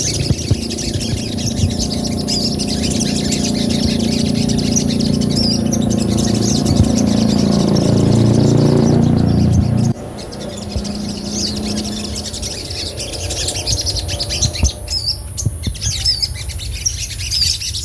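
Sogon (crimson sunbird) chirping in short, high, curling notes. A steady low hum runs beneath it, growing louder and then cutting off suddenly about ten seconds in.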